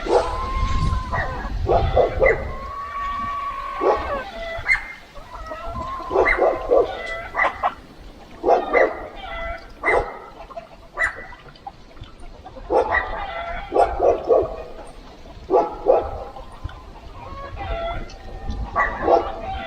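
Animals calling repeatedly: clusters of short, sharp calls every second or two, with a few longer held notes between them.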